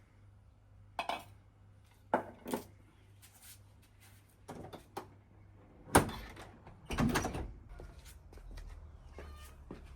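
A string of short household knocks and clunks, like a door or cupboard and dishes being handled. The sharpest knock comes about six seconds in, followed by a longer clattering rattle.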